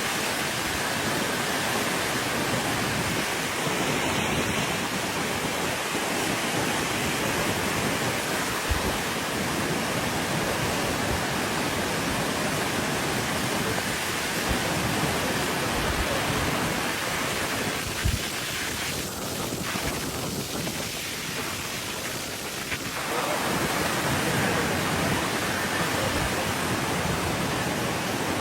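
Steady rushing of a swollen river in flood after heavy rain, an even wash of water noise that thins a little for a few seconds past the middle, with a couple of brief low thumps.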